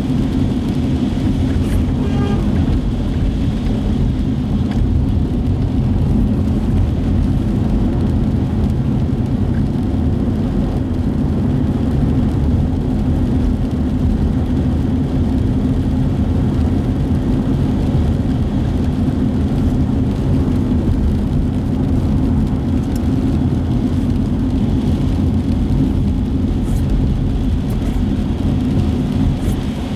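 Steady in-cabin road noise of a car driving on wet city streets: a constant low rumble of engine and tyres, heard from inside the vehicle.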